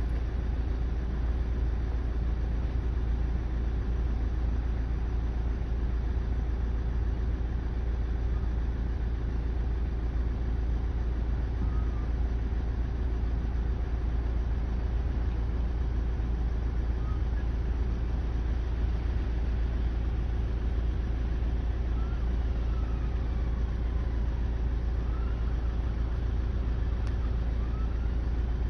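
Steady low rumble of a car engine idling, heard from inside the car as it waits with the engine running.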